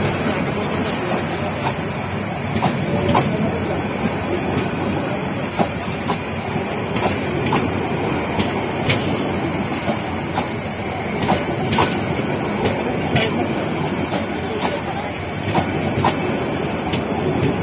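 Passenger train coaches rolling past close by: a steady rumble of wheels on the track, with scattered, irregular sharp clicks and knocks from the running gear.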